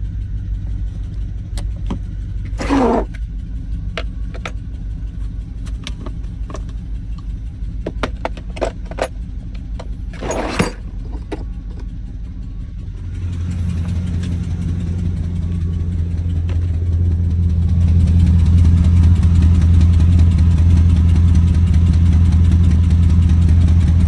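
GM 4.8-litre LS V8 truck engine running at idle with an exhaust leak at the headers, with irregular sharp ticks over the first half. The engine sound grows louder about 13 seconds in and louder again around 18 seconds.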